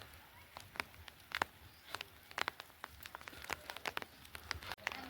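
Raindrops falling and dripping onto a hard surface: irregular sharp ticks and pops, several a second, over a faint patter.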